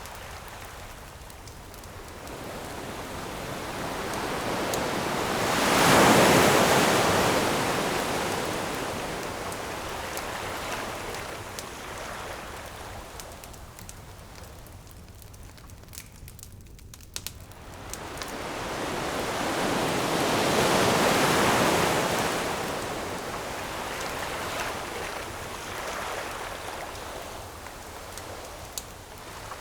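Ocean waves breaking on the shore, two big swells rising and falling away about 6 and 21 seconds in, with a few sharp pops from a crackling campfire.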